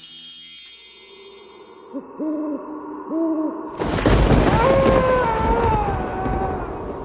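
Cartoon Halloween sound effects: a sparkly chime shimmer, then an owl hooting twice. About four seconds in, a loud rush of wind sets in, with a long, slowly falling howl over it.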